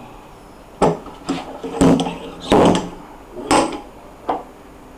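Six sharp knocks at uneven intervals, like a tool striking a hard surface, some with a short ring after them.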